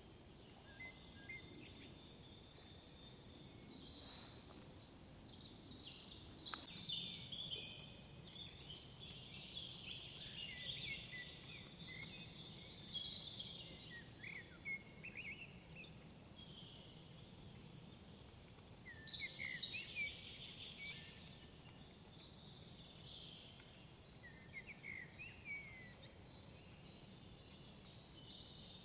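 Several songbirds singing in woodland: overlapping chirps, quick glides and trills, in bursts that come and go, over a faint steady background hiss.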